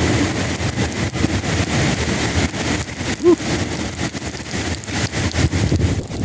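Heavy rain pouring during a thunderstorm, a steady hiss over a low rumble, with a brief squeak about three seconds in.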